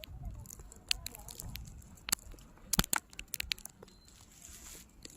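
Footsteps crunching in deep fresh snow, an irregular series of crunches with a few sharper ones about three seconds in.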